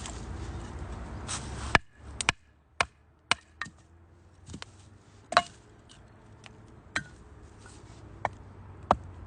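Wood fire crackling in a small wood-burning stove: sharp, irregular pops and snaps, several close together around two to four seconds in and a loud one about five seconds in. A low steady rumble underneath stops abruptly about two seconds in.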